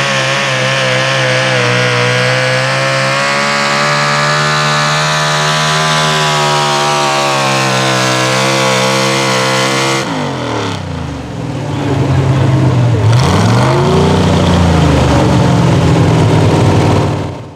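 Pulling truck's engine running hard at high revs for about ten seconds. Then the revs drop sharply and climb back up, and the engine runs loud again until the sound cuts off suddenly near the end.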